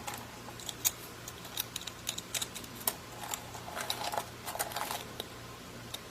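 Scarlet macaw rummaging through a bin of mixed nuts: irregular small clicks and rattles of nuts and shells knocking together, a few a second.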